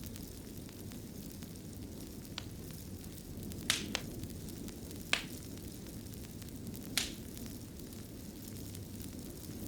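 Wood fire in a fireplace crackling: a steady low rush of flames with a handful of sharp pops scattered through it, the loudest about four and seven seconds in.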